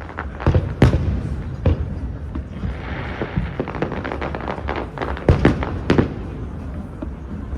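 Fireworks going off in a quick run of booms and sharp cracks. The loudest come about a second in, and twice more around five and six seconds in, with a crackling hiss around three seconds in.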